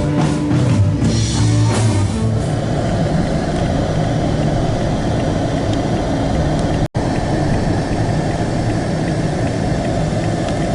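Rock music with guitar and drums for about the first two seconds, then a steady, loud rumble of a car engine idling, which drops out for an instant about two-thirds of the way through.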